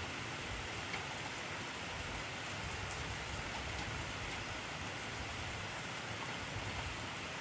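Heavy rain falling steadily, an even hiss with a few separate drop taps standing out.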